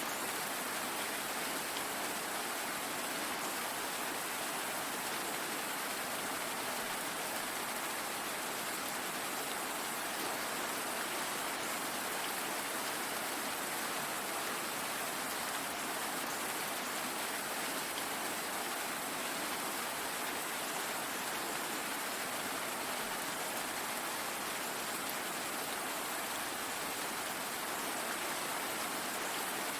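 Steady rain falling, an even unbroken hiss with no breaks or distinct drips.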